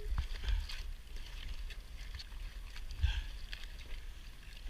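Scattered clicks and knocks as Dungeness crabs are handled and sorted out of a hauled crab pot on a kayak, over a steady low rumble. The loudest knocks come about half a second and three seconds in.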